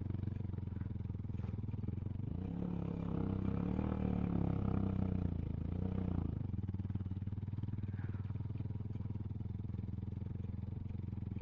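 Motorcycle engine running at low speed, picking up briefly about a quarter of the way in before settling back to a steady run.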